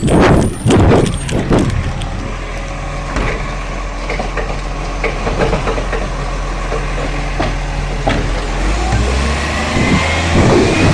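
Garbage truck engine running steadily, with several heavy bangs in the first two seconds. The engine's drone grows louder and rises a little in pitch about eight and a half seconds in.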